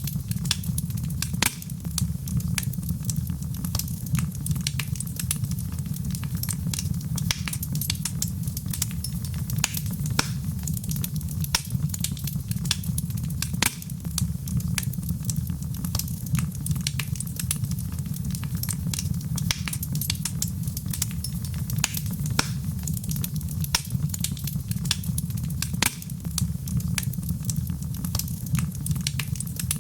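Wood fire in a fireplace burning steadily, with a low rumble and frequent sharp crackles and pops.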